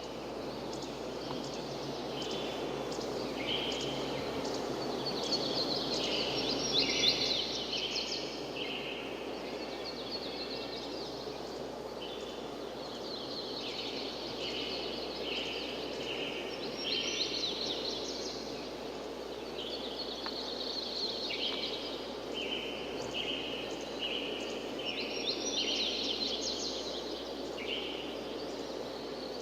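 Forest birds singing, short repeated calls and trills coming in groups every few seconds, over a steady rushing background noise.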